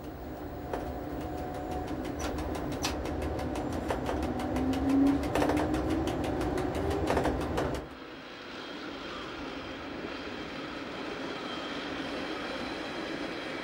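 Narrow-gauge electric railcar running through a station: a heavy rumble with many sharp clicks of wheels over rail joints and points, and a tone rising in pitch in the middle. About eight seconds in, it cuts abruptly to a quieter, steady hum.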